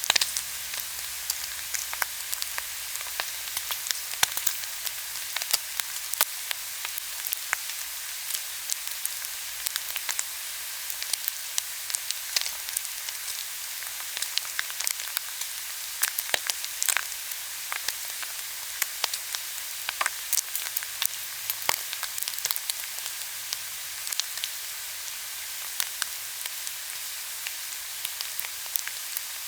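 Korean pork belly sizzling on a grill: a steady hiss with frequent crackling pops.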